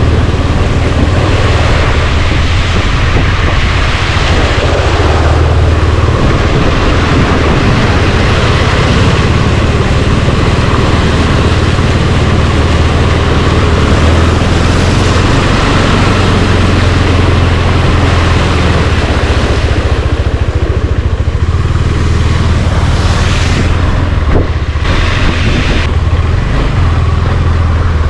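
Steady road-vehicle noise, a loud continuous low rumble under a broad hiss.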